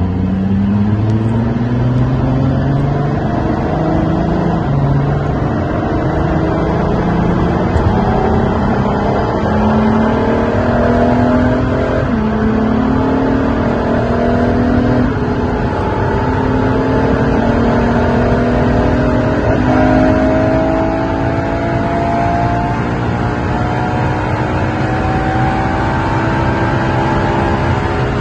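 LaFerrari's V12 engine accelerating hard through the gears. In the first few seconds the pitch climbs and drops back with several quick upshifts, then it rises slowly over long stretches in the high gears, over a steady rush of wind and road noise.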